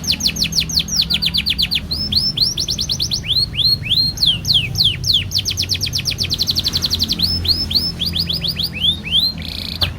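Domestic canary singing a long unbroken song: fast rolls and trills of repeated notes, mostly quick downward sweeps, that change speed and pitch every second or so.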